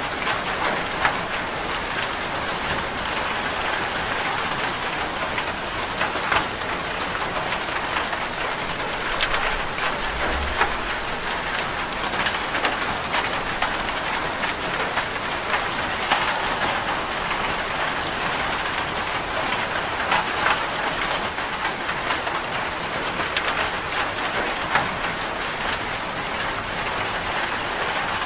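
Steady rain falling in a dense, even hiss, with scattered sharper drop ticks on a hard surface.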